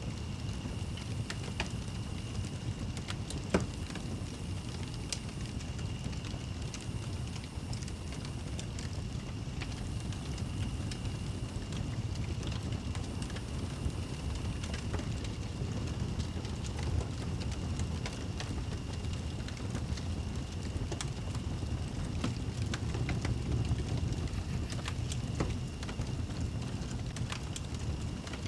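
Wood fire burning in a fireplace: irregular sharp crackles and pops over a low steady rumble, with a louder pop about three and a half seconds in. A faint steady high tone sits beneath it.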